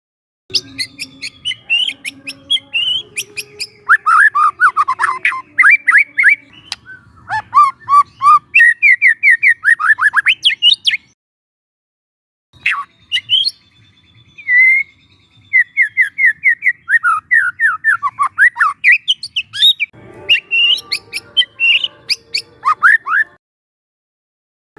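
Young white-rumped shama (murai batu) singing in rapid runs of quickly repeated slurred whistled notes. It breaks off about eleven seconds in, starts again a second or so later, and stops shortly before the end.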